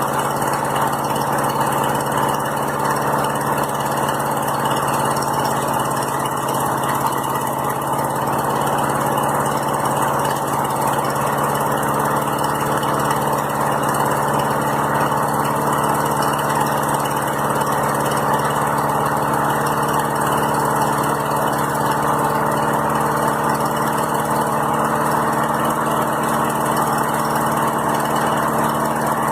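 Lawn mower engine running steadily at an even speed on a cold start.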